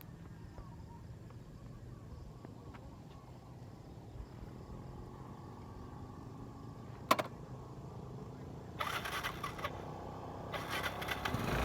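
Steady low hum of motorcycle engines running at a distance, growing louder near the end. One sharp click about seven seconds in, then two spells of crackling noise near the end.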